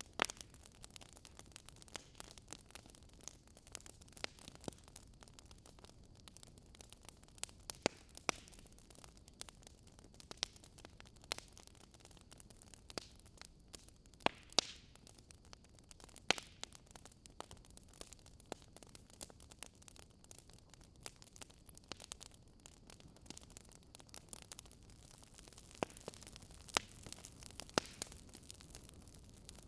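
Crackling fire: irregular sharp pops and crackles over a faint, low, steady hiss, with a few louder pops scattered through it, such as about halfway and again near the end.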